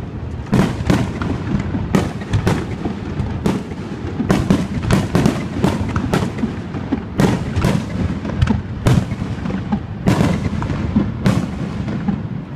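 Aerial fireworks display: a rapid, continuous barrage of bangs and crackles, several a second, over a steady low rumble of echoing booms.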